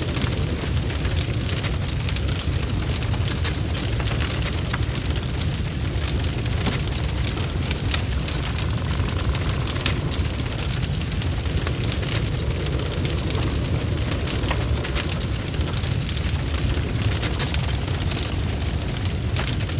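Bonfire crackling: frequent sharp pops and snaps over a steady low rumble of flames.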